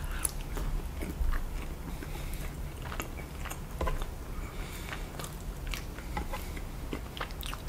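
Close-miked chewing and biting of sauce-covered rotisserie chicken: wet mouth sounds with scattered short clicks.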